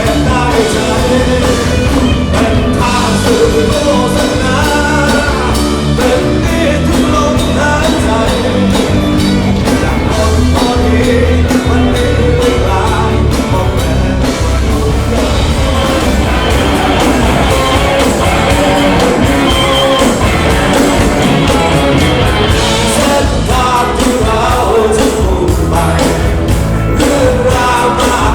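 Live rock band with a singer, a song performed at full volume with a steady beat.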